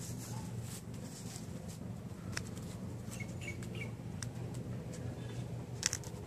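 A steady low hum with a few short bird chirps about three seconds in, and scattered light clicks, the sharpest near the end.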